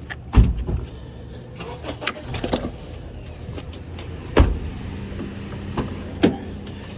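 Skateboard wheels rolling on pavement with a steady rumble, broken by several sharp clacks and thumps of the board, the loudest about half a second in and again past the middle.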